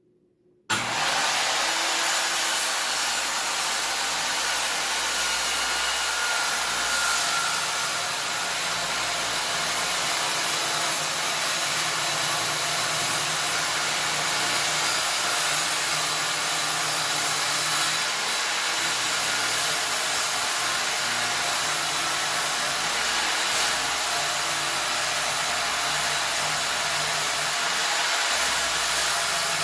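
Ridgid worm-drive circular saw ripping along the edge of a long maple board, a steady loud cutting noise that starts abruptly less than a second in and runs on without a break.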